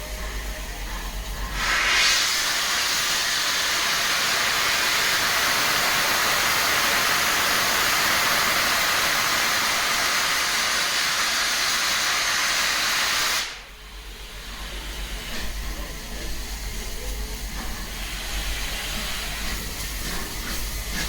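Steam locomotive letting off steam: a loud, steady hiss that starts about two seconds in and cuts off sharply after about eleven seconds, leaving quieter station background noise.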